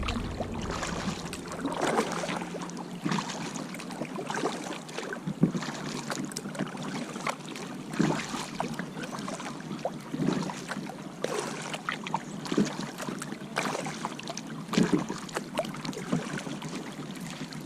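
Kayak paddle strokes dipping into the water in a steady rhythm, a splash about once a second.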